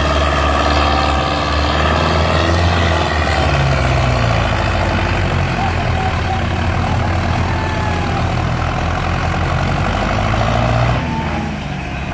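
Tractor engine running hard, its pitch rising and falling, then easing off about eleven seconds in.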